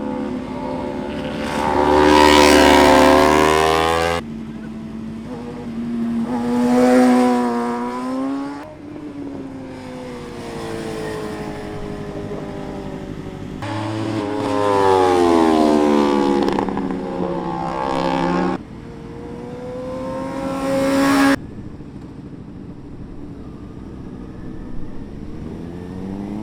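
Superbike engine accelerating hard several times, its pitch climbing through each gear and then cutting off sharply as the throttle shuts, with quieter stretches of lower engine note and road noise between the pulls.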